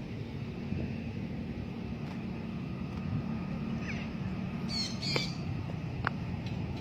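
A parrot gives a few short, harsh squawks, falling in pitch, about four to five seconds in, over a steady low background rumble.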